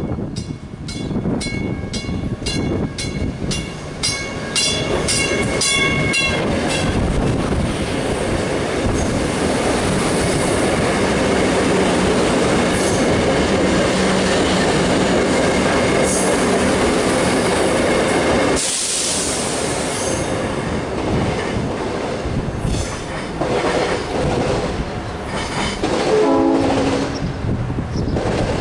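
South Shore Line electric commuter train running through the station at speed. As it comes in, a quick series of sharp clicks speeds up, then the cars rush past in a loud, steady roar of wheels on rail for about ten seconds. The noise then thins and fades as the train moves away, with a short falling whine near the end.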